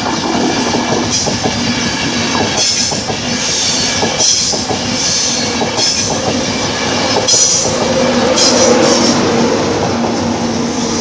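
LNER InterCity 225 express, a Class 91 electric locomotive with Mark 4 coaches, running past at speed. Its wheels rumble on the rails under a steady hum, with a high hissing screech breaking in about once a second through most of the pass. The sound is weird on that piece of track.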